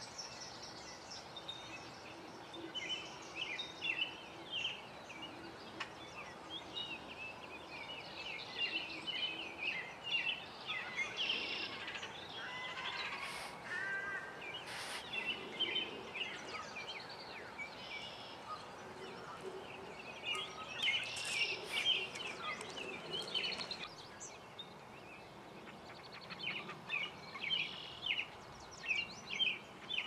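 Small songbirds chirping and twittering in a busy mix of short, high calls, over a steady haze of background noise.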